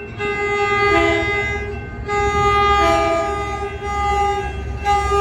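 Coaster commuter locomotive 2105's multi-note horn sounding a series of long and short blasts as the train approaches.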